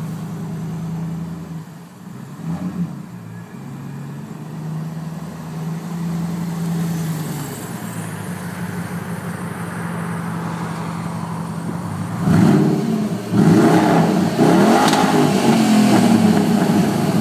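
Audi RS6 with a straight-through exhaust idling steadily, with a brief throttle blip about two and a half seconds in. About twelve seconds in it is revved several times, louder, the pitch rising and falling with each rev.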